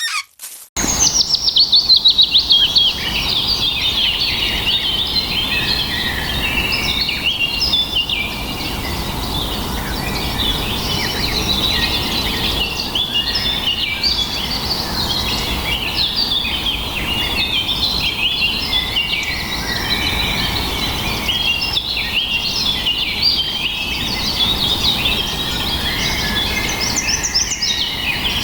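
Many birds chirping and trilling at once in a dense chorus, over a steady low background noise; it starts abruptly just under a second in.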